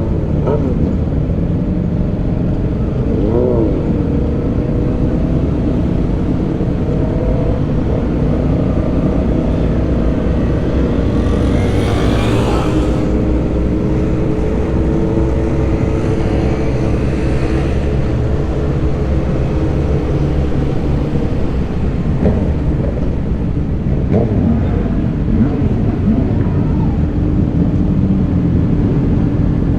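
Motorcycle engine running steadily on the move, over a low road rumble, with two brief louder rushes of noise about twelve and seventeen seconds in.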